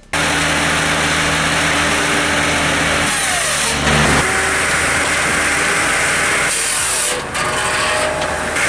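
An engine running with a steady low hum. About four seconds in, a pitch drops and the sound turns into a rougher, noisier rumble with loud hiss.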